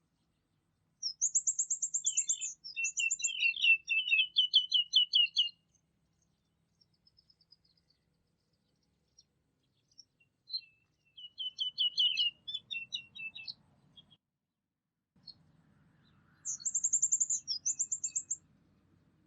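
A songbird singing in three bouts. Each bout opens with a fast, very high trill, followed by a run of quick repeated notes a little lower in pitch.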